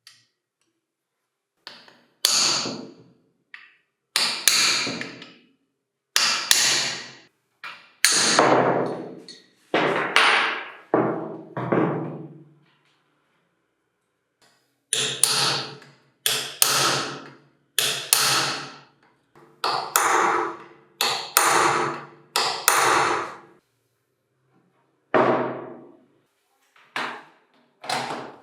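A hammer striking repeatedly: about twenty blows at irregular intervals, each dying away over about a second, with a short pause near the middle.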